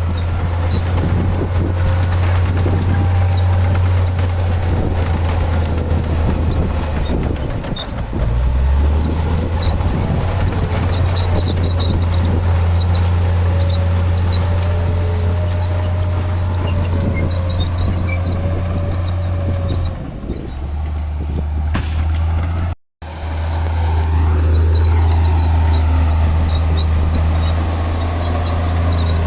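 Heavy diesel engine of earthmoving machinery running under load as a steady low drone, its pitch rising and falling with the throttle. The sound drops out completely for an instant about two-thirds of the way through.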